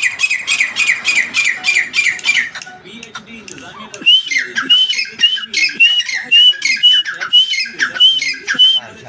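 Grey francolin (teetar) calling. A fast run of harsh repeated notes lasts about two and a half seconds. After a short pause comes a steady series of shrill, rising-and-falling whistled notes, about two a second.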